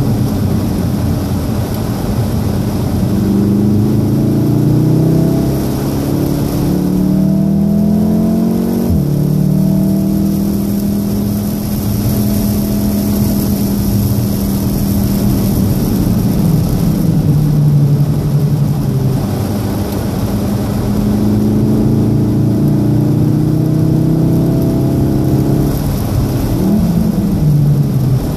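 VW Golf R's turbocharged 2.0-litre four-cylinder heard from inside the cabin, pulling hard on a wet track. The engine note climbs and drops sharply at an upshift about nine seconds in, then rises and falls again later, over a steady hiss of rain and wet road noise.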